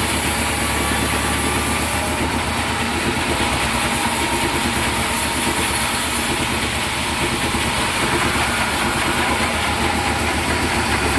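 Sawmill machinery running, a steady engine drone with a strong low hum.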